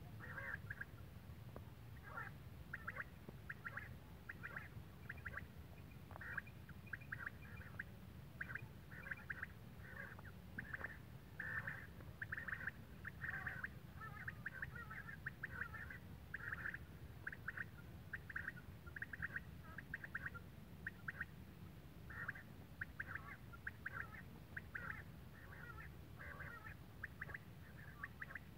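A bird calling in short chirps, several a second, in runs broken by brief pauses, over a steady low rumble.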